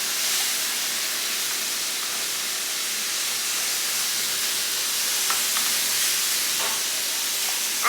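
Food sizzling in a hot frying pan, a steady hiss, with a couple of faint light clicks in the second half.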